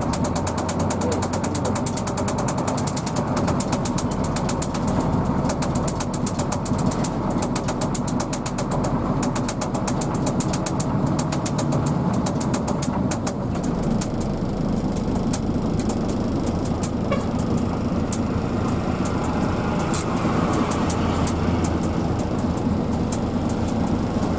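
Inside a moving Hino AK diesel bus: steady engine and road noise, with a fast run of sharp clicks or rattles through it, thickest in the first half.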